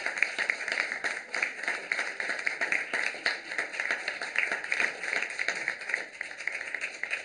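Audience applause: many hands clapping steadily, as a sound effect at the close of an animated sketch.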